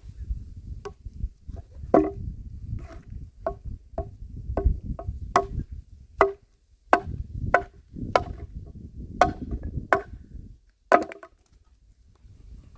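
A handmade axe chopping wood: about fifteen sharp strikes, spaced roughly half a second to a second apart, stopping about eleven seconds in.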